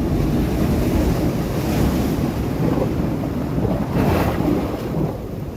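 Sea waves breaking on rocks: a continuous low rush of surf, with one louder wave crashing about four seconds in. Wind rumbles on the microphone.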